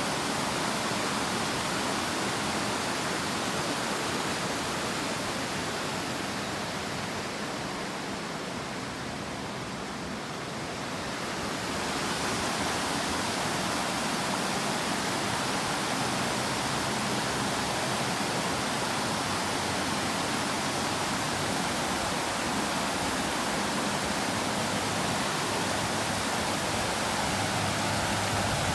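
Steady rushing of flowing water, an even hiss-like roar that turns duller and a little quieter for a few seconds about a third of the way through.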